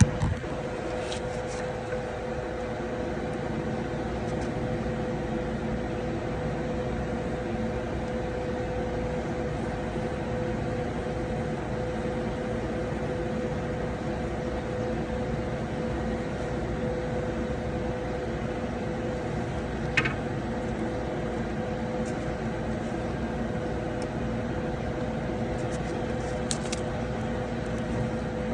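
Small boat engine running steadily: a constant droning hum that holds one pitch throughout, with a short click about two-thirds of the way through.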